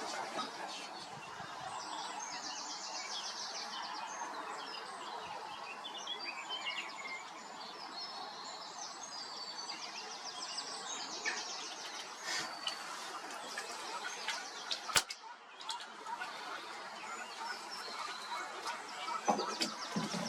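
Small songbirds singing in fast, varied trills and chattering phrases over a steady outdoor background hiss. A sharp click comes about fifteen seconds in, where the sound briefly drops.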